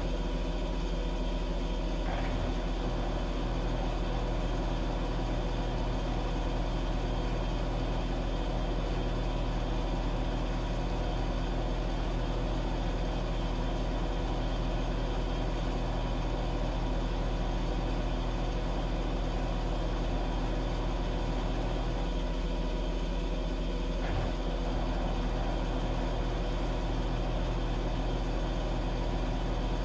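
Washing machine running with a steady motor hum, with two faint clicks about twenty seconds apart.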